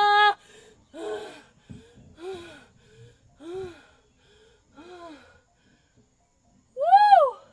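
Women's voices in an experimental vocal performance: a held sung note cuts off just after the start, followed by four short breathy vocal sounds a little over a second apart, each rising then falling in pitch, and near the end one louder, higher cry that swoops up and back down.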